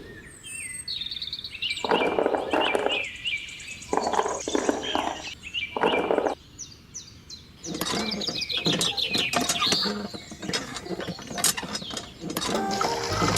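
Birds chirping, with several short harsh noises of about a second each and a stretch of rapid clicking.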